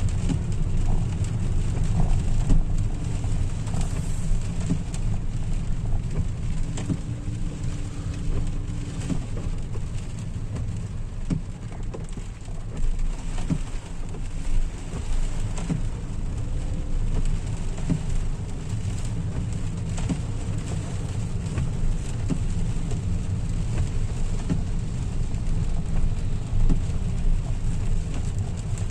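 Rain hitting a moving car, heard from inside: scattered drop ticks over a steady low rumble of engine and tyres on the wet road.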